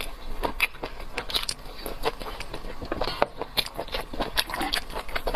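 Close-miked eating: a mouth chewing and biting food, with many quick irregular wet clicks, smacks and crunches.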